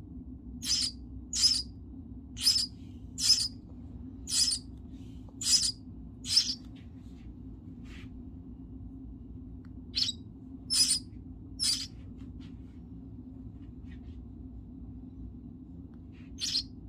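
Baby bird's shrill begging cheeps at feeding time: short, high calls, seven in a run about once a second, then a pause, three more, and one near the end. A steady low hum runs underneath.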